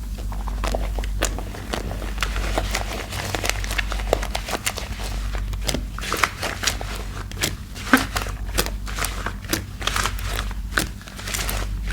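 Thick laundry-detergent soap paste being mixed by hand, giving wet squishing with a dense run of irregular clicks and crackles. There is a steady low hum underneath.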